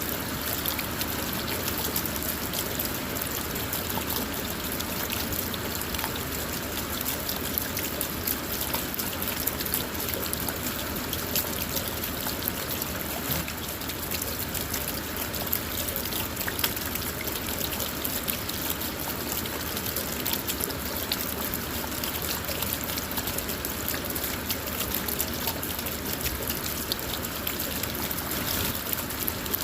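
Steady rain falling on a car, heard from inside the cabin: an even hiss with many small drop impacts scattered through it.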